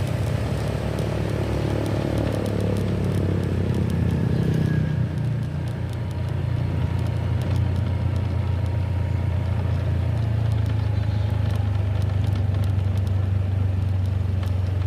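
Motorcycle engine running on the move, its note falling over the first few seconds as it slows, then holding steady, with some faint crackle on the microphone.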